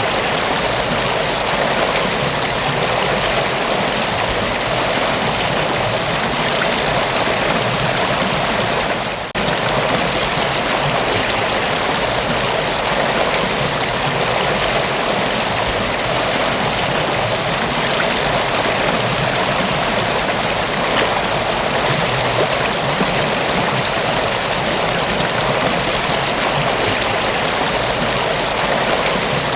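Mountain waterfall: a steady, dense rush of falling water, with a brief dip in level about nine seconds in.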